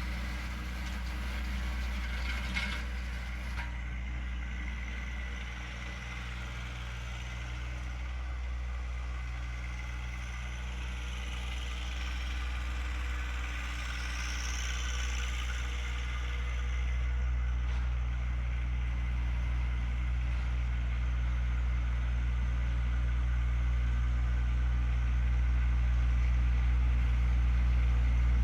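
John Deere 1025R compact tractor's three-cylinder diesel engine running steadily under work, slowly getting louder toward the end.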